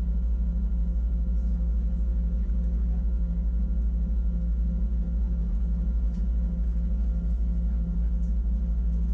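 Wengernalp Railway rack-railway train running: a steady low rumble with a constant electric hum of several steady tones, and now and then a faint click from the running gear.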